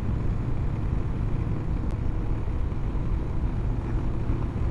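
Honda CB500X motorcycle's parallel-twin engine running steadily at cruising speed, mixed with the steady rush of the ride.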